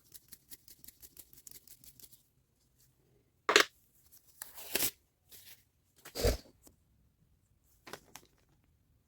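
Handling noises of work on a workbench: a quick run of light clicks for about two seconds, then a few sharp knocks and rustles spaced about a second apart, the loudest about a third of the way in.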